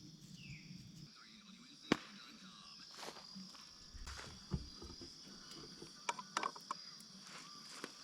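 A steady high insect chorus of evening crickets, with scattered light clicks and knocks of camp gear being handled.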